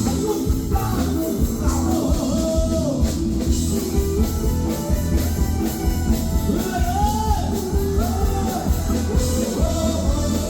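A Thai song: a male singer over guitar, bass and drums, with a steady beat.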